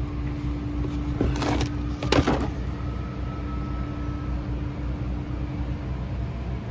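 Steady low hum with two short scraping clunks about one and a half and two seconds in, the second the louder, as the burnt clutch parts are handled.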